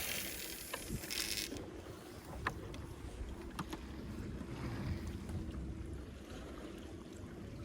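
Steady low rumble of a small fishing boat on the water, with wind on the microphone and a few sharp clicks.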